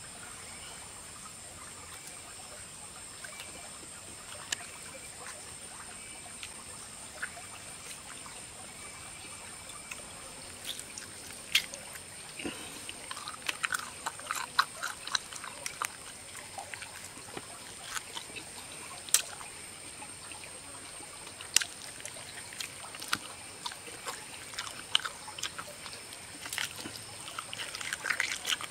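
Chewing and lip-smacking while eating grilled boar's head meat by hand: a run of sharp wet clicks and smacks that starts about ten seconds in and keeps going, over a steady high-pitched background drone.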